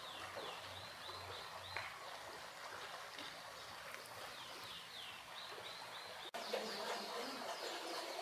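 Bird chirping in runs of quick, high, descending notes over a steady hiss of ambience. About six seconds in the sound drops out for an instant and returns louder, with a lower, wavering call underneath the chirps.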